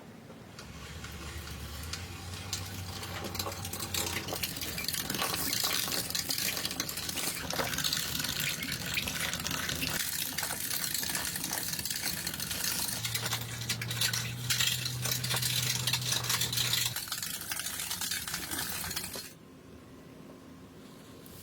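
Kitchen food preparation with water: dense clinking, rattling and splashing in a vessel, as when food is washed or stirred. It builds over the first couple of seconds, runs on busily and stops abruptly near the end.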